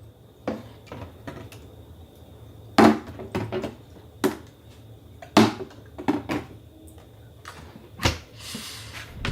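Irregular knocks and clicks of hard objects being handled and set down, a dozen or so spread unevenly, over a low steady hum.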